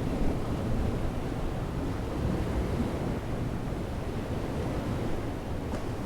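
Surf washing on the shore with wind buffeting the microphone: a steady, low rumbling noise.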